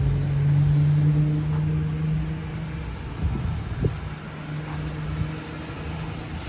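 Car engine idling steadily just after its revs settle, the note fading somewhat about halfway through, with a short click near the middle.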